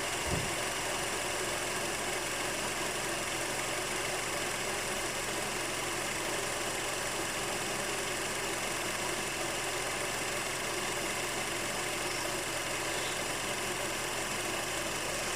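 2011 Honda CR-V engine idling steadily with an abnormal engine noise, the kind the owner says it makes mostly when cold, shortly after start-up, and when stopped with the A/C on. There is a single low thump just after the start.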